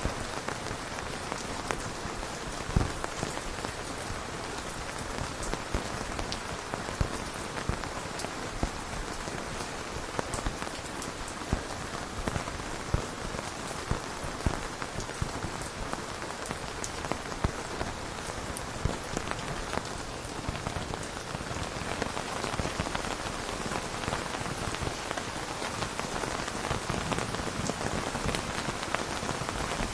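Steady rain falling on a surface, with scattered drops ticking sharply; it grows slightly heavier in the last third.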